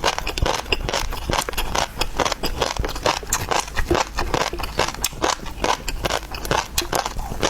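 Close-miked eating of seafood: wet chewing, smacking and crunching, a quick run of sharp clicks several times a second.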